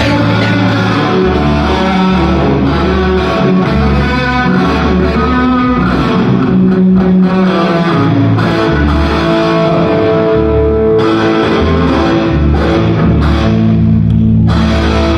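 Rock music with electric guitar and bass guitar, played loud.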